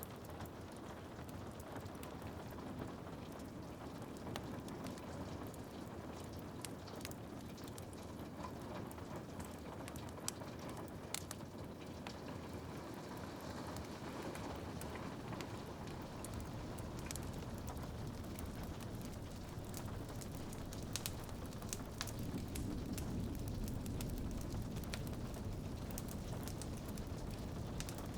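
Wood fire crackling with scattered sharp pops over a steady hiss of rain; the low rushing sound grows a little fuller and louder near the end.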